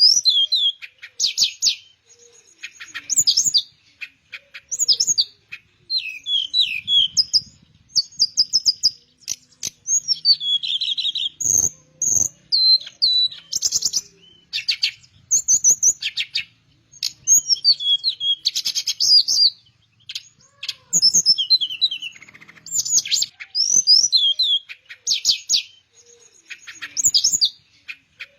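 Teledekan, a Cyornis blue flycatcher, singing a long run of quick, varied warbling and trilling phrases with short pauses between them. A brief low knock sounds about twelve seconds in.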